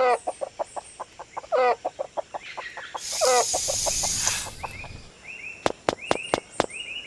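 Chickens clucking in short calls over rapid, regular ticking, with a brief hiss about midway and a few sharp clicks near the end.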